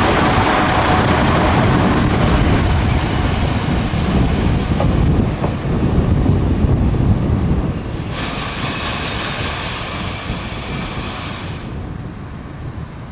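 Kyoto Tango Railway KTR001 'Tango Explorer' diesel train passing close by: a loud rumble of wheels on rail that slowly fades. A hissing noise joins about eight seconds in and cuts off abruptly near the end.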